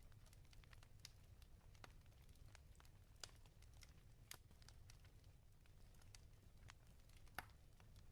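Wood fire crackling quietly in a fireplace: irregular small pops and snaps over a low steady rumble, with a few sharper pops, the loudest near the end.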